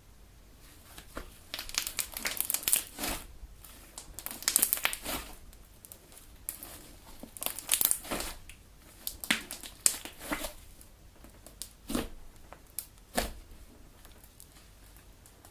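Homemade Elmer's glue galaxy slime being kneaded and stretched by hand, giving bouts of sticky crackling and popping with short pauses between, dying away near the end.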